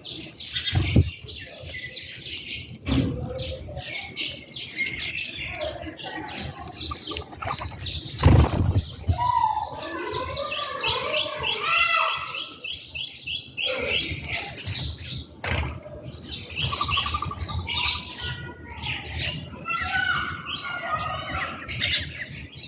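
A flock of small birds, house sparrows among them, chirping rapidly and continuously while they feed, with lower calls from other birds about halfway through and again near the end. A few short thumps, some of them likely wing flaps, stand out over the chirping, the loudest about a third of the way in.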